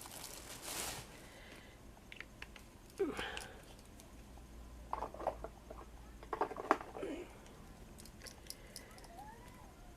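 A short rustle of wiping in the first second, then scattered light clicks and handling noises as craft materials are moved on the work table.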